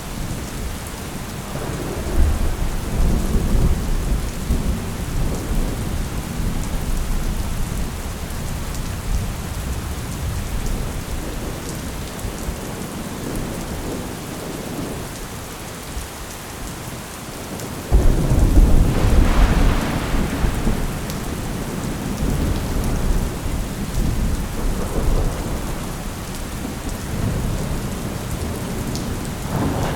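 Steady rain with thunder: a rolling rumble starts about two seconds in, and a louder, sharper clap comes about 18 seconds in and rolls on for several seconds.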